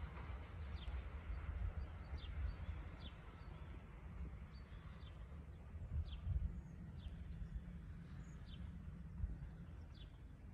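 A small bird calling, a series of short downward chirps about once a second, over the uneven low rumble of wind on the microphone.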